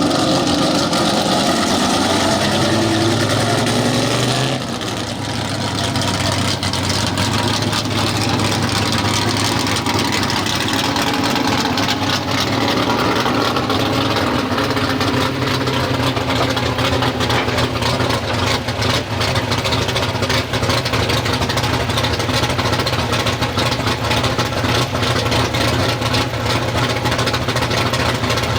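Engine of a super street 4x4 pulling truck running loud and steady, with a brief drop and change in pitch about four and a half seconds in.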